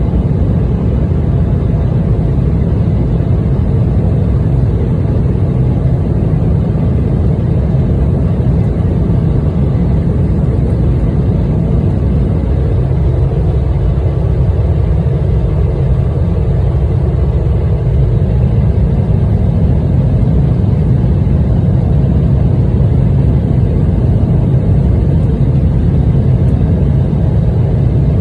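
United Embraer E175 jet's twin turbofan engines at takeoff power, a loud, steady low rumble.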